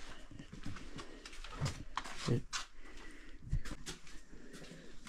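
Faint low cooing of a bird, a few short calls, with scattered light clicks and knocks.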